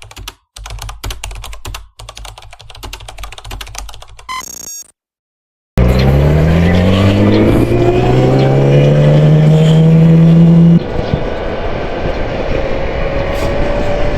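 A rapid run of typing-like clicks over a low hum, then, after a second of silence, the Yamaha YZF-R6's inline-four engine on its stock exhaust comes in loud, rising in revs and holding a high, steady note. About eleven seconds in the note drops suddenly and then climbs slowly again.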